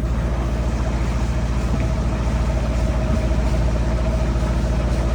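Sailboat's auxiliary motor running steadily under way: a low, even drone with a quick regular pulse.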